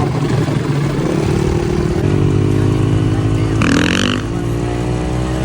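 Dirt bike engine running under steady throttle, the pitch drifting up slightly, then easing off about four seconds in. A brief sharp, hissy sound with a falling tone cuts through just before the engine backs off.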